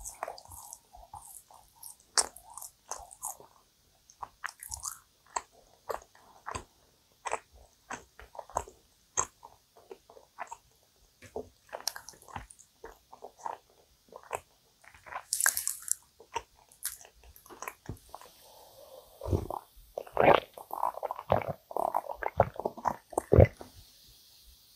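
Close-miked chewing of dense, syrup-soaked yakgwa (Korean honey cookies): many short, sticky, wet mouth clicks and smacks. Near the end there is a louder run of sticky sounds as another piece is torn apart and bitten.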